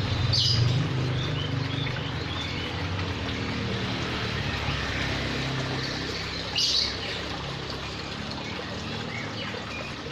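Cockatoo giving two short, high calls about six seconds apart, over a steady low hum.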